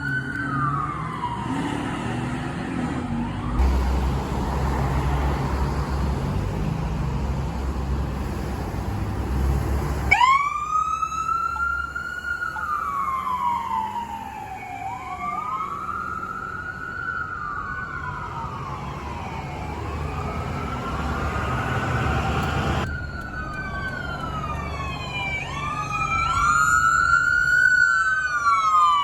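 Emergency vehicle sirens wailing, each cycle rising quickly and then falling slowly, with two or more sirens overlapping near the end. A vehicle's rumble and road noise fill the first third, where one siren trails off.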